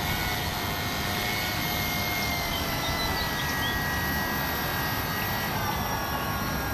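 Fly Zone Tidewater RC seaplane's electric motor and propeller running, a steady whine of several tones over a rushing hiss that shifts slightly in pitch about five and a half seconds in.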